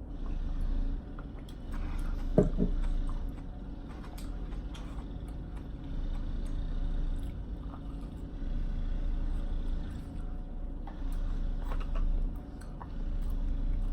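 Close-miked eating: chewing and mouth sounds come in stretches of a second or more, with scattered small clicks, over a steady low hum. A brief louder sound comes about two and a half seconds in.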